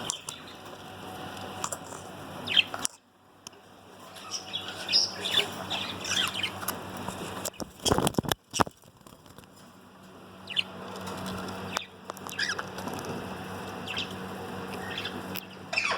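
Cockatiels and other small parrots chirping now and then, with a short burst of wing flapping a little past halfway.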